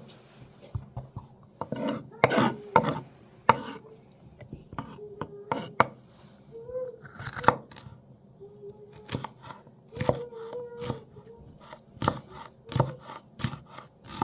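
A series of irregular sharp knocks and clicks, some loud, scattered throughout, like hard objects being handled or chopped on a surface.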